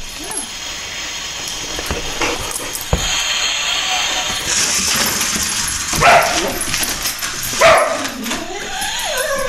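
Boxer dog whining and yipping, the calls rising and falling and coming more often in the last few seconds. A sharp knock sounds about three seconds in, amid scraping and rustling noise.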